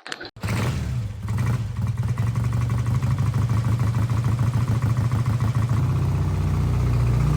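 BSA A10 Flash's 650 cc parallel-twin engine running steadily. It comes in about half a second in and rises slightly in pitch near the end.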